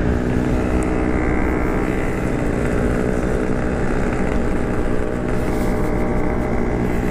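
Yamaha RX-King's two-stroke single-cylinder engine running steadily under way at an even throttle.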